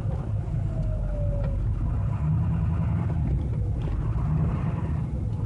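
Steady low rumble of a vehicle's engine and tyres on the road while travelling, with a faint tone that slowly falls in pitch.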